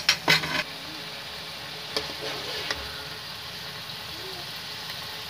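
Stuffed bitter gourds and onion masala sizzling in oil in a metal karahi. A metal utensil knocks and scrapes against the pan several times in the first half second, and knocks twice more about two seconds in.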